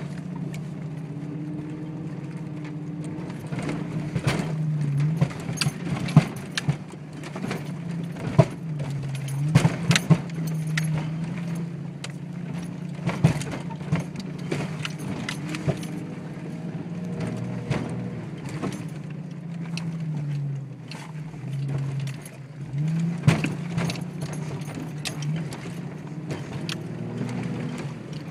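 Jeep Cherokee XJ running in four-wheel drive, its engine droning as the revs rise and fall, with sharp clunks from the drivetrain every few seconds at irregular moments. The front end is tight and the U-joints are good, so the cause of the clunk is unknown.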